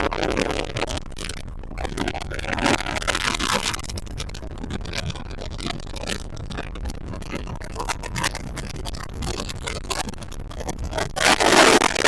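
Wind rushing and buffeting over the microphone on a boat running at speed, over a steady low rumble of the boat under way. The gusts come and go, with the loudest one near the end.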